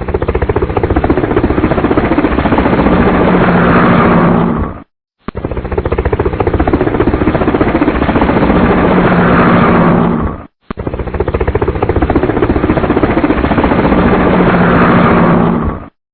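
Electronic helicopter sound effect from a toy firefighter helicopter's sound chip: a fast rotor chop with steady tones building near its end. It plays as three identical bursts of about five seconds, each cutting off sharply before the next.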